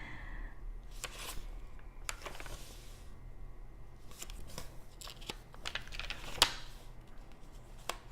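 Paper pages of a handmade junk journal being turned and handled: rustling and crinkling in several short strokes, with a sharper tap about six seconds in.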